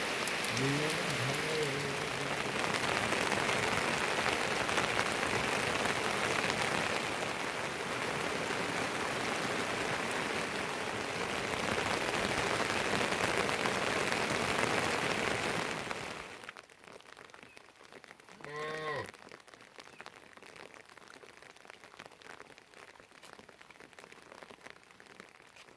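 Heavy rain pattering on surfaces, a dense steady hiss that cuts off suddenly about two-thirds of the way in, leaving a much quieter background broken by one short pitched call.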